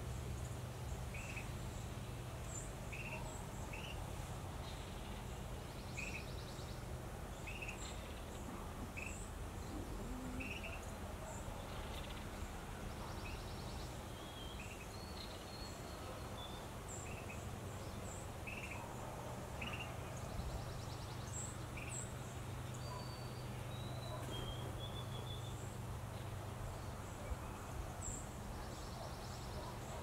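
Wild songbirds calling: a short chirp repeated about once a second for most of the first twenty seconds, with thin high notes and a few brief trills above it, over a steady low hum of background noise.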